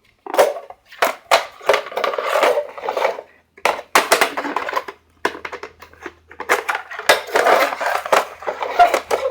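Hard plastic clicking, scraping and rattling in irregular bursts as a slot car is taken out of its plastic display case and handled.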